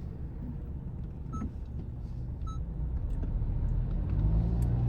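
Car engine and road noise heard inside the cabin while driving, with two short electronic beeps about a second apart. Near the end the engine note rises and grows louder as the car speeds up.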